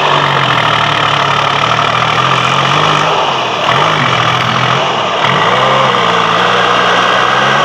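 Tractor engine running hard, its pitch dipping twice and climbing back as the revs change.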